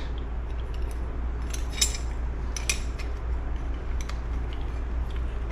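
Light metallic clicks and taps as the steel parts of a motorcycle engine's gear-shift mechanism are handled and worked over a shaft. A few scattered clicks over a steady low hum.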